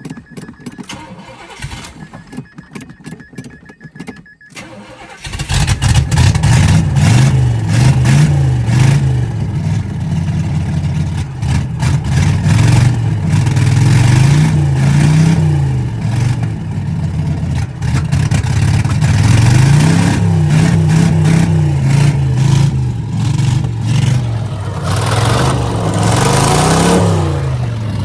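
Oldsmobile 307 V8 catching about five seconds in and then running rough, revved up and down every couple of seconds on its newly fitted Edelbrock carburettor because it won't settle into an idle on its own. Before it starts there is a thin steady electronic beep with some clicks.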